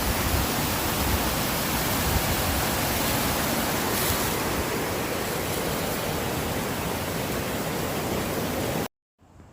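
Steady rushing of a fast-flowing cascading stream, loud and even, cutting off abruptly near the end.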